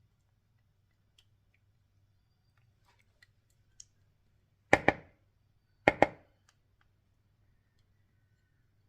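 Faint ticks and clicks, then two pairs of sharp clinks with a brief ringing tail, about five and six seconds in: a utensil knocking against a mixing bowl while sauce is measured into the wings.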